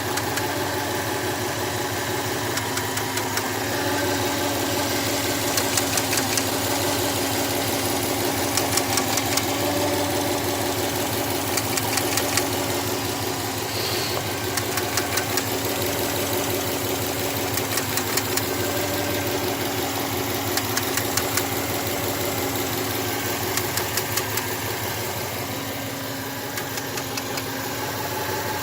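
Subaru EJ204 2.0-litre flat-four engine idling steadily, with a knocking that comes in clusters of rapid ticks every few seconds, which the owner puts down to the AVCS (variable valve timing) valve.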